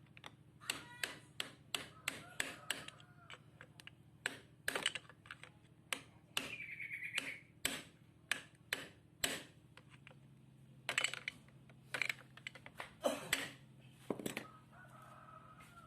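Irregular metallic clinks and knocks of hand tools and parts being handled during a clutch repair, some ringing briefly, over a faint steady low hum.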